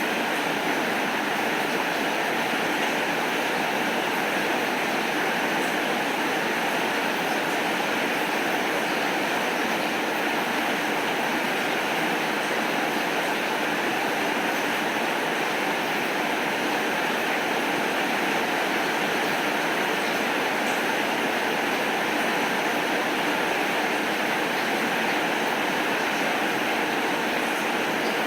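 Steady rain falling, an even hiss that holds unchanged.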